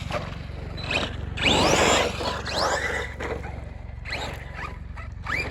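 Electric RC trucks' motors whining up in pitch as they accelerate, several times, with noisy rushes of tyres on loose dirt between them.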